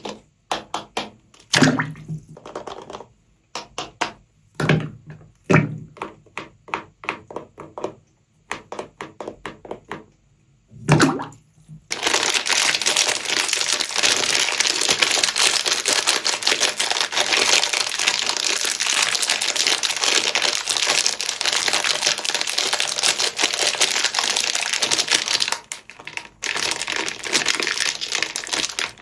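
A soapy sponge being squeezed and worked into foam, giving crisp crackles. For about the first twelve seconds they come as separate crackles with short pauses. After that they run together into a dense, continuous crackle, broken by a brief pause near the end.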